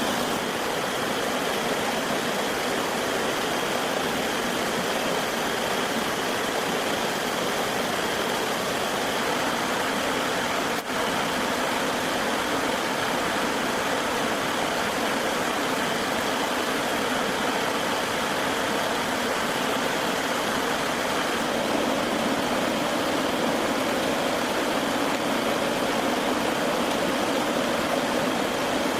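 A steady rushing noise with no distinct strikes or pitch, dipping briefly about eleven seconds in.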